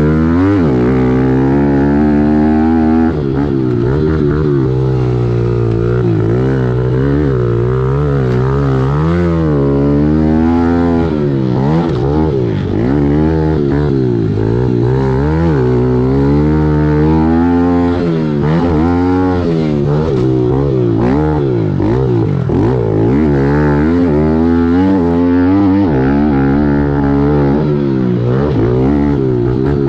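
Kawasaki KLX110L pit bike's 110cc single-cylinder four-stroke engine heard from on board, revving up and dropping back again and again as the throttle is worked around a motocross track.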